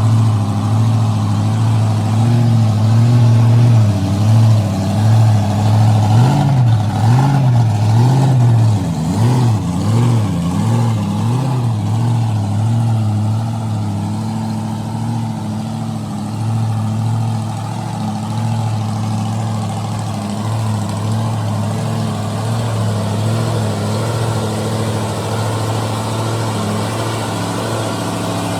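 An engine running steadily, its pitch wavering up and down several times in quick swells a few seconds in, then settling back to a steady drone.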